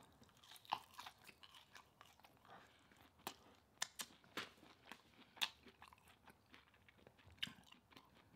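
Faint close-up chewing of a mouthful of sweet potato fries, with scattered soft crunching clicks, a handful of them sharper than the rest.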